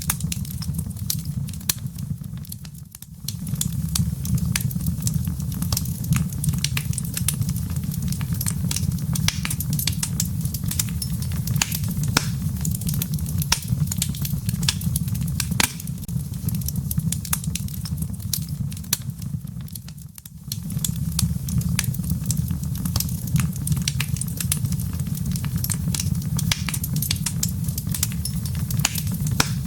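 Wood fire in a fireplace crackling, with frequent sharp pops and snaps over a steady low rumble. The sound fades for a moment twice, about three seconds in and again at about twenty seconds.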